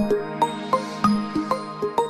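A mobile phone ringtone: a quick melody of short struck notes, about four a second, over a held low note.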